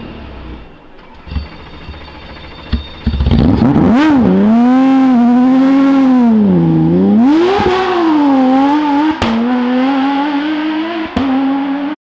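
Porsche rally car engine at full throttle, its note rising and falling repeatedly with the revs, with a few sharp cracks along the way. It comes in loud about three seconds in and cuts off suddenly near the end.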